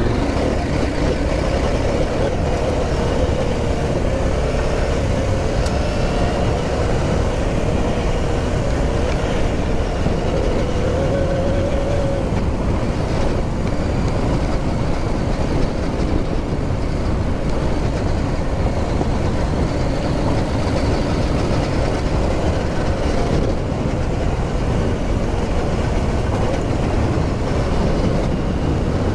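Motorcycle engine running steadily while riding, under a constant low rumble of wind on the microphone.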